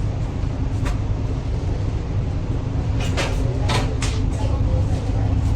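A passenger train carriage in motion, heard from inside: a steady low rumble with a few sharp clicks and rattles, several close together about three to four seconds in.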